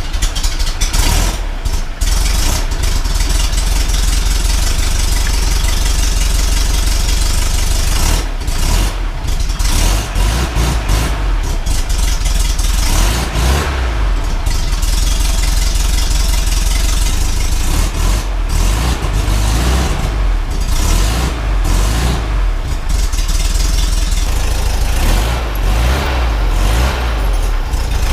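Air-cooled VW 1600cc dual-port flat-four engine, on a 30 PICT-1 carburettor, running loudly just after starting on its first run since being installed in the bus, the throttle rising and falling at times.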